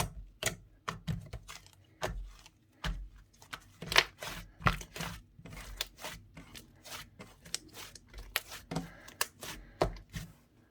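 Slightly sticky mint-chocolate clay slime, slime mixed with iClay, being squished and stretched by hand, giving irregular sharp sticky pops and clicks, several a second.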